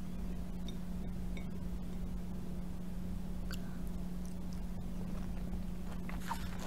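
Chewing a piece of soft fruit, with a few faint wet mouth clicks, picked up by a clip-on microphone. A steady low hum runs underneath.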